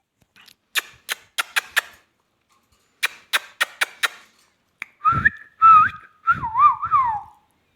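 Ringneck parrot making two quick runs of about five sharp clicks, then whistling a few warbling notes that slide up and down in pitch.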